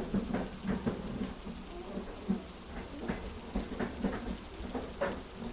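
Steady heavy rain ambience with a low rumble beneath it.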